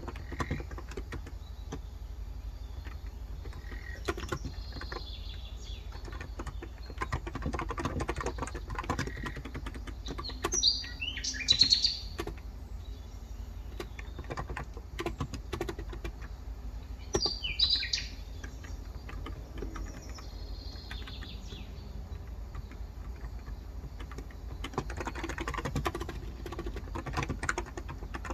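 Typing on a COX Endeavor electro-capacitive (non-contact) keyboard with 35 g switches, steady soft keystrokes throughout, while birds chirp. The loudest calls come about ten seconds in and again near seventeen seconds.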